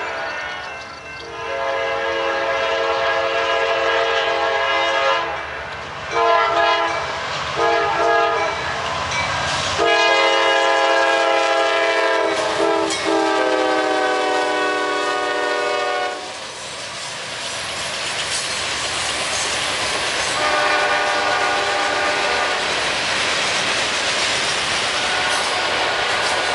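A Norfolk Southern freight locomotive horn blows a sequence of long and short blasts as the train approaches, the last long blast sagging in pitch as the lead GE D9-40CW passes. It is followed by the steady rush and clatter of the locomotives and loaded ballast cars rolling by on the rails, with one more brief horn blast partway through.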